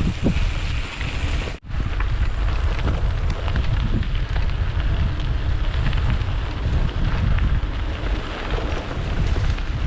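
Wind buffeting the microphone during a mountain-bike ride on a forest road, a loud steady rumble and rush. The sound cuts out for an instant about one and a half seconds in.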